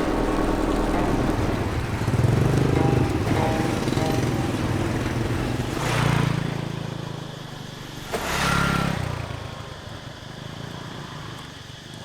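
Motorbike engines running, with two louder swells about six and eight and a half seconds in, like bikes passing close by.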